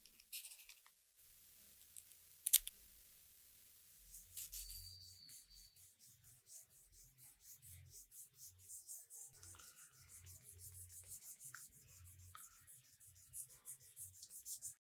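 Hand rubbing or sanding on a small part: faint scratchy strokes that settle into a quick, regular back-and-forth in the second half, with a sharp click a couple of seconds in.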